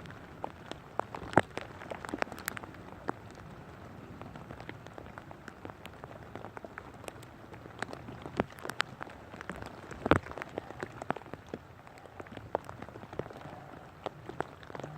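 Rain falling, with many irregular sharp ticks of drops landing close by and two louder knocks, about a second and a half in and about ten seconds in.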